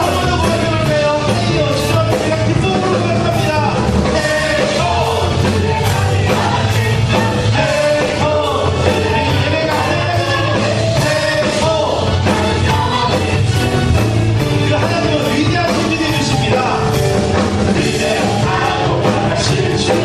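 Worship band music with singing over a steady drum beat.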